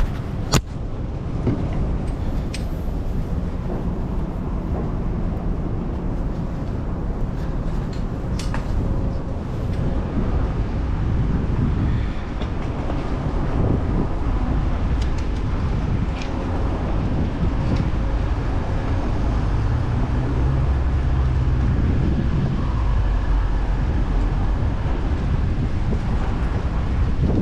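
Steady low rumble of wind and road noise from riding a bicycle through city traffic, with a sharp click about half a second in and a few fainter ticks.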